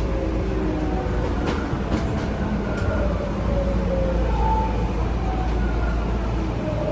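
Tokyu 9000 series electric train heard inside the car, its Hitachi early GTO-VVVF inverter and traction motors whining in several tones that slide steadily down in pitch as the train slows, over a low running rumble. A few sharp clicks of the wheels over rail joints come in the first few seconds.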